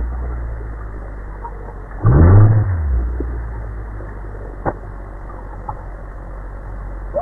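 A steady low motor-like hum, with one loud surge about two seconds in that rises and falls in pitch, and a single click near the middle.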